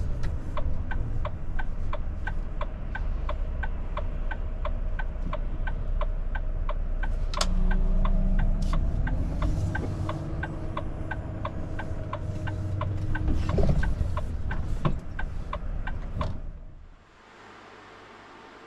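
Truck cab turn-signal indicator ticking about twice a second over the low running of the Volvo FH's diesel engine and road noise. Near the end the rumble and ticking stop abruptly, leaving a faint steady hiss.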